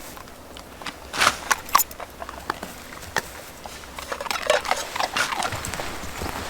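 A dog eating a treat it has just been released to take: scattered short crunching and mouth noises.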